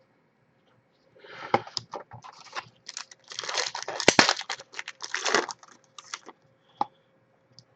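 A trading card pack's wrapper being torn open and crinkled, in a series of rustling bursts, followed by a couple of single clicks near the end.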